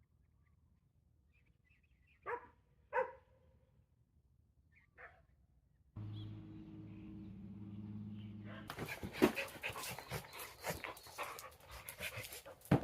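A dog gives two short barks close together, then a third a couple of seconds later. A steady low hum then starts abruptly, and from about nine seconds a dense run of clatter and knocks takes over.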